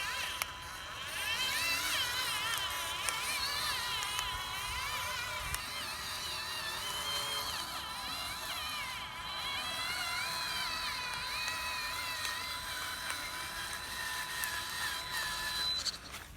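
Electric motor and gearbox whine of a radio-controlled construction truck, several whining tones rising and falling in pitch as the throttle changes, cutting off near the end.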